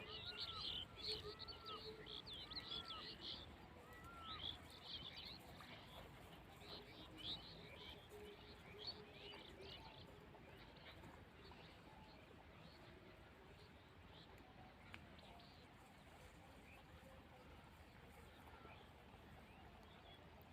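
Faint chirping of small birds, with a repeated arched call note about once a second in the first few seconds. The birdsong thins out after about ten seconds, leaving only faint outdoor background noise.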